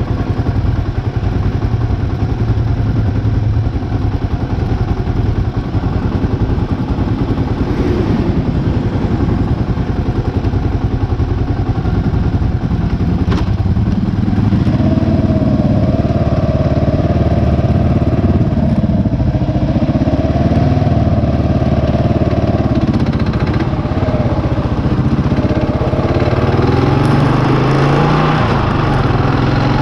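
Single-cylinder dual-sport motorcycle engine running under way, a steady engine note with a rising pitch near the end as it accelerates.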